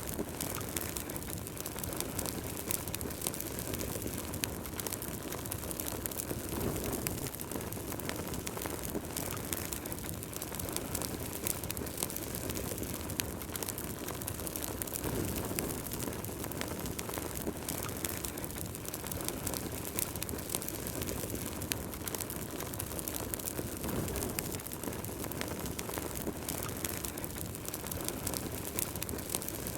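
Wood fire burning in a fireplace: a steady low rumble of flames with frequent small crackles and pops, swelling a little now and then.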